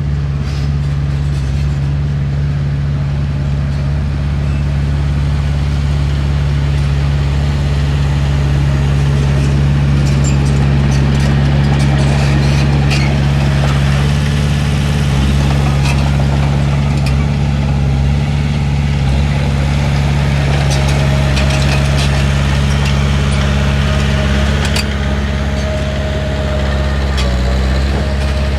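Heavy diesel engine of an earthmoving machine running steadily, with scattered metallic clanks and rattles over it and a faint whine in the second half.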